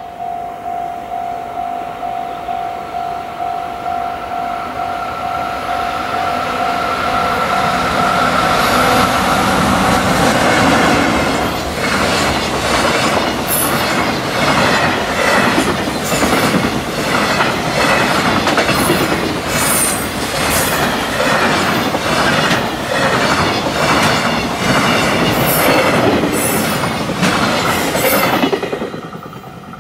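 A level-crossing warning bell rings in a steady pulsing rhythm as a freight train approaches. About nine seconds in, the long container train reaches the crossing and its wagons run past loudly, wheels clacking rhythmically over the rail joints, until the sound drops away near the end.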